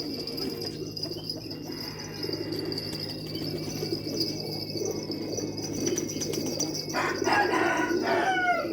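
Pigeons cooing and flapping their wings over a steady high insect drone. A rooster crows near the end.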